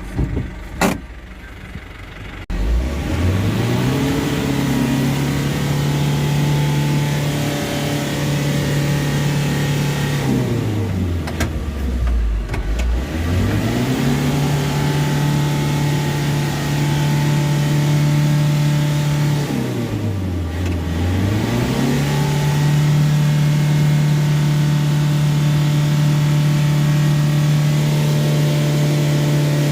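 Isuzu Traga pickup's diesel engine revved hard and held at high revs under heavy load, pulling through deep mud; twice it drops back and climbs again. A couple of sharp knocks come before it in the first seconds.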